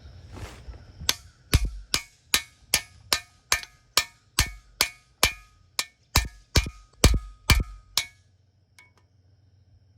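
A hammer striking metal in steady blows, some twenty sharp hits at about two and a half a second, each with a brief ring. They stop about eight seconds in.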